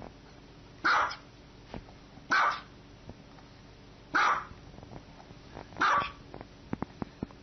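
Small white dog barking four times, short barks spaced about a second and a half apart.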